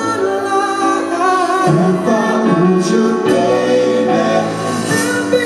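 Live concert performance of a slow pop ballad: singing over instrumental backing.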